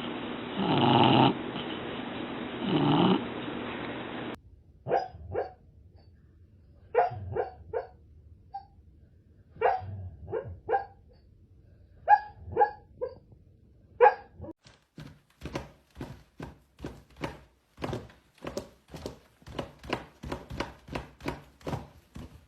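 A sleeping dog snoring in slow, loud breaths. After about four seconds the sound changes to a sleeping dog's muffled woofs and yips in twos and threes, which quicken into a rapid run of short yips in the second half.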